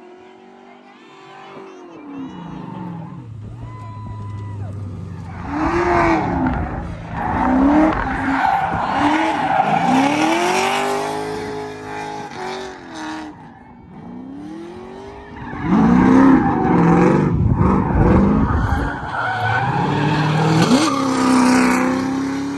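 LS V8 engine in a Nissan S13 drift car revving up and down hard while the tyres squeal through drifts, getting louder about six seconds in and again about sixteen seconds in.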